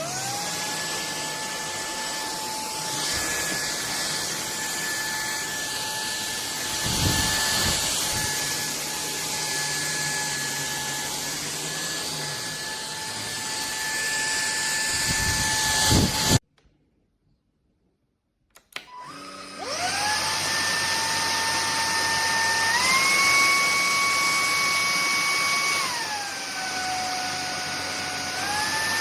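Bulelink cordless stick vacuum motor spinning up with a rising whine and running steadily. It switches off about two-thirds of the way through, then starts again a couple of seconds later. It is then stepped up to a higher speed, down to a lower one, and back up again.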